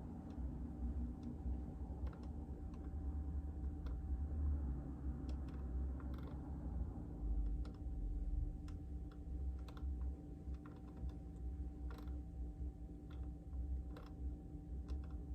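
Typing on a JJK84 mechanical keyboard with Outemu Silent Peach silent linear switches: irregular keystrokes in short runs with pauses, over a low steady hum.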